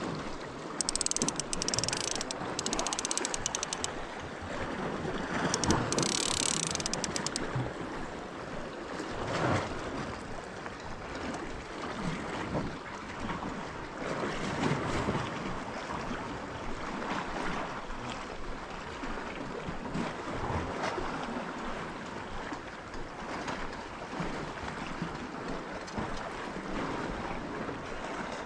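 Ocean waves washing and surging against a rocky shore, swelling and ebbing every few seconds, with wind buffeting the microphone. Twice in the first seven seconds a fast, high-pitched clicking rises over the surf for a second or two.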